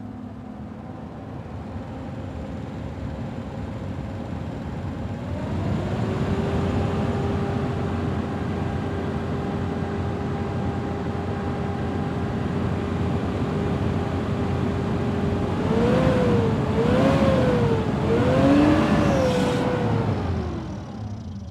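Mitsubishi ECI-Multi 3.0-litre V6 engine running, a suspected noise problem. It steps up to a higher steady speed about five seconds in and holds there, then is revved up and down three times near the end before dropping away.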